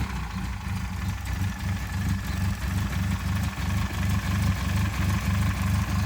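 1935 Triumph Gloria Southern Cross's 1232cc Coventry Climax engine idling steadily with an even low beat.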